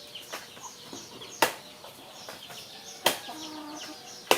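Three chops of a blade into a soft banana-tree trunk, about a second and a half apart. Chickens cluck and birds chirp quietly in the background.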